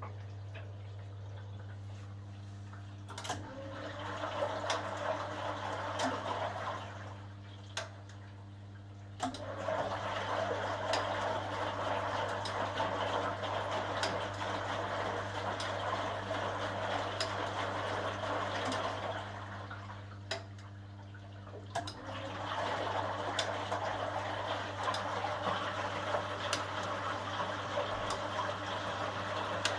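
1980 HUWA Automatic Standard 4 washing machine running, with water sloshing in the drum in spells broken by pauses of about two seconds, over a steady low hum.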